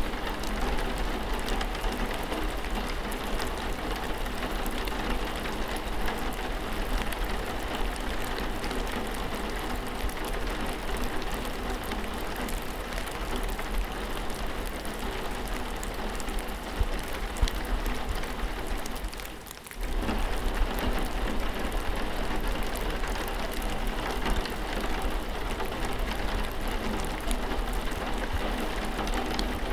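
Steady heavy rain, with a low steady hum running beneath it. The sound dips away for about half a second around two-thirds of the way through and comes straight back.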